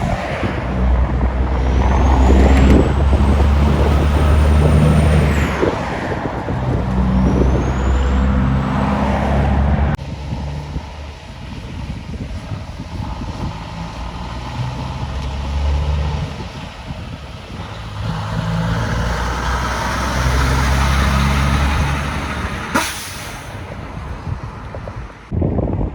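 Heavy trucks' diesel engines running past, pitch stepping up and down through gear changes, with two rising high whines in the first ten seconds. A brief sharp air-brake hiss comes near the end.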